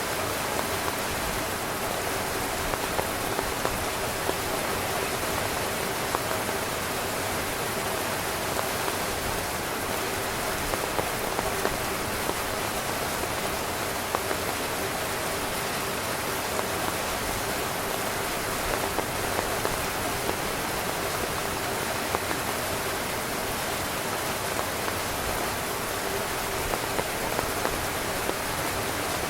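Heavy rain falling steadily on a tent, a constant hiss with frequent sharper drop hits on the fabric.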